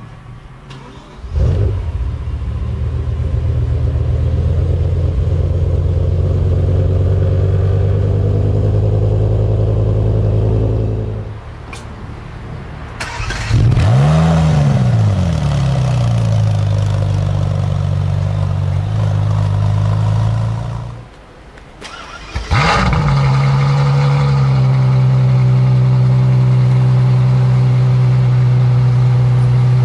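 Three high-performance car engines started one after another. A BMW M6's V10 fires about a second in with a rising flare and settles to a steady idle. A second supercar starts near the middle with one rev that rises and falls before idling. Near the end, a Ferrari F12's V12 starts with a flare and settles into a steady idle.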